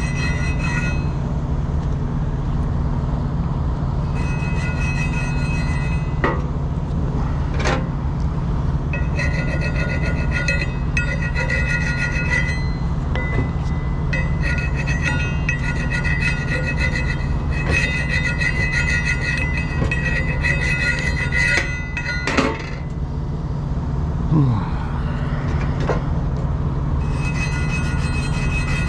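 Axle flange being cleaned with a brush, a high rasping scrub in runs of a few seconds with pauses between, over a steady low drone. Two sharp metallic knocks, about 8 s and 22 s in.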